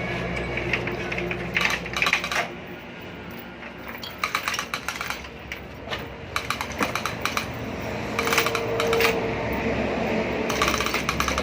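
Short bursts of rapid metallic clicking and clinking from hand tools working on metal, about six bursts, each under a second long.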